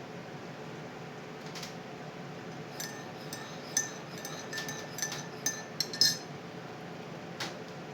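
Spoon stirring in a cup, clinking repeatedly against the side for about three seconds with a light ringing tone. A single knock follows near the end.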